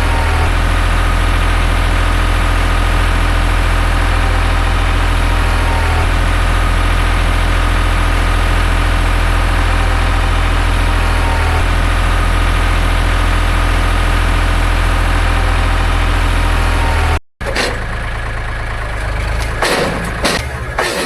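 Sawmill's engine running steadily. Near the end it cuts off abruptly and gives way to more irregular, varied sounds.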